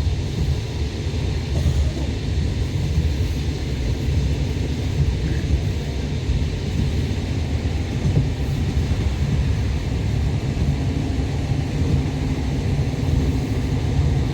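Passenger train running along the rails, heard from inside the carriage: a steady low rumble of the wheels and running gear.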